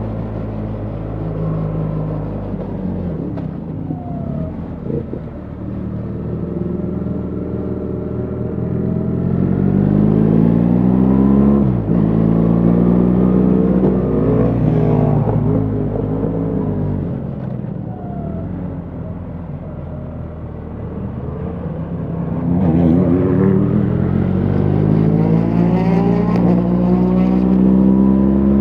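BMW R 1300 GS's boxer-twin engine running under way, its note rising and falling repeatedly with the throttle, with a brief sharp drop about twelve seconds in like a gear change.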